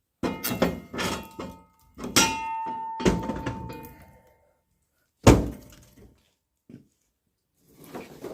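A wood stove being worked: a run of clanks and thunks, one leaving a ringing metallic tone for about two seconds, and a single loudest thunk about five seconds in.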